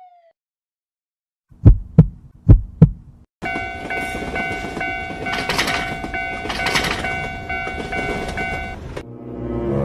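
Cartoon train sound effects: four heavy clacks in two pairs, like wheels over rail joints, then the rumble of a passing train with a level-crossing bell ringing in a quick repeating pattern for about five seconds. This cuts off about nine seconds in, giving way to a lower droning sound.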